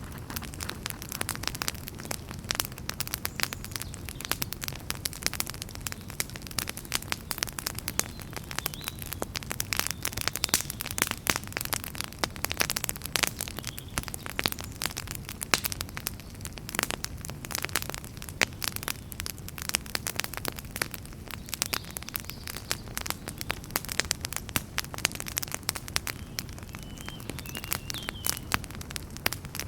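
Wood fire in a fireplace crackling: a dense, irregular run of sharp pops and snaps over a steady low background of burning.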